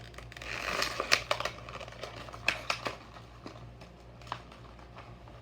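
A plastic blister pack on a diecast car card being pried and torn open: a burst of crinkling in the first second or so, then a string of sharp plastic clicks and snaps.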